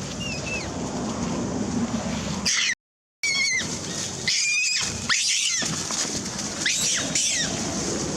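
Newborn baby monkey crying: a string of high-pitched wailing calls, each arching up and falling in pitch, loudest around the middle, over a steady background hiss. The crying is from hunger, as the infant is pushed away from its mother's milk.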